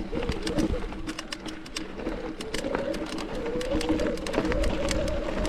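Mountain bike riding over rocky trail, with the tyres and drivetrain giving a dense run of sharp clicks and rattles. A wavering hum runs underneath.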